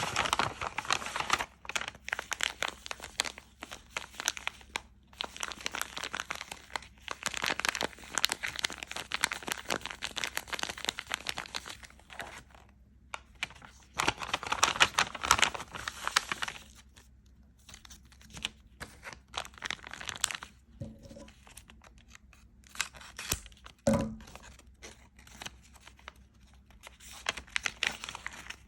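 Close-up crinkling and crackling, like something crumpled or torn in the hands, in bursts of several seconds with short pauses. After about 17 s it thins to scattered ticks, with a single dull thump about 24 s in.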